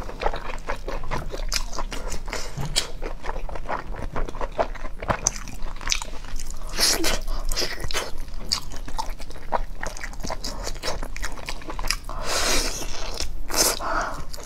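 Eating sounds: biting, crunching and chewing braised pork off the bone, a dense run of quick irregular mouth clicks, with a few louder stretches about halfway through and near the end.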